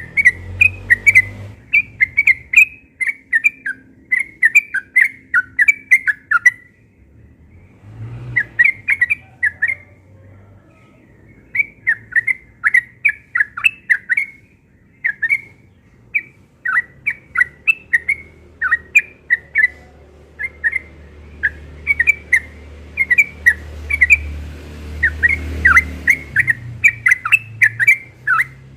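Yellow-vented bulbul singing in rapid, continuous strings of short bubbling notes, the fast 'ropel' song of a bird in full voice, broken by two brief pauses about a quarter and a third of the way in.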